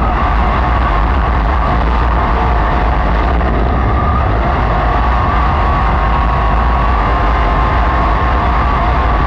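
Racesaver sprint car's 305 V8 engine running hard at racing speed, its pitch rising and falling a little as the throttle changes.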